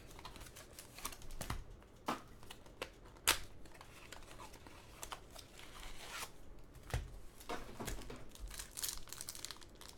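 Trading card pack wrapper crinkling and tearing in irregular rustles and clicks as hands struggle to pull the pack open.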